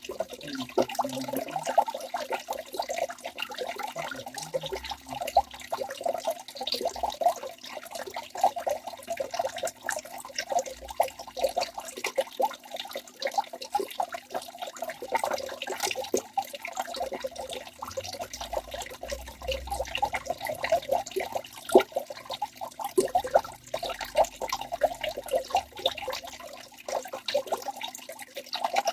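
Waterfall: water pouring and splashing steadily, a busy churning of many small splashes with no let-up.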